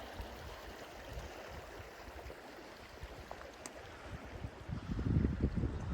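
Creek water rushing steadily, with wind buffeting the microphone from about five seconds in.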